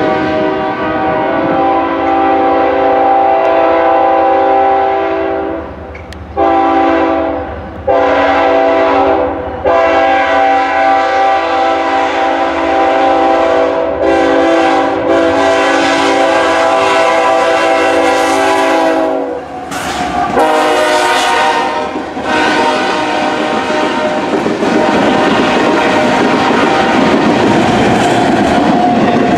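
Diesel freight locomotive's multi-tone air horn sounding a series of long blasts as the train approaches, ending about two-thirds of the way through. Then the locomotive and freight cars roll past, wheels clicking over the rail joints.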